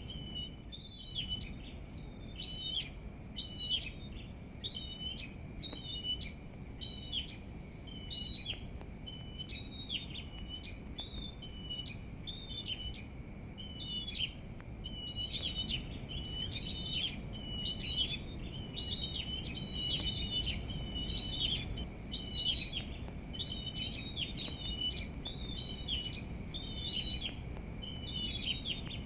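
Small birds chirping continuously in quick, repeated short high phrases, over a steady low rumble of outdoor background noise.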